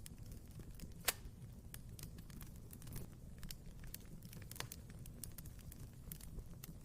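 Fire crackling in a fireplace: scattered sharp crackles over a low steady rumble, with one loud pop about a second in and a smaller one past the middle.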